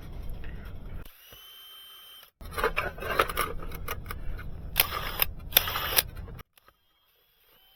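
Power drill with a 3/16-inch Bosch bit drilling a mounting hole: a short run of about a second, then a longer run of about four seconds with loud grinding bursts as the bit bites, stopping about a second before the end.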